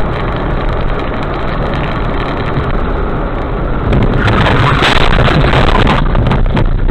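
Car driving noise picked up by a dashcam: a steady rushing of road and engine noise that grows louder about four seconds in.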